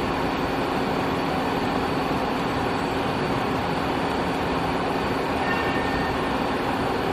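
Nexturn SA-20B Swiss-type CNC lathe running: a steady mechanical hum with a constant low tone and a faint high whine.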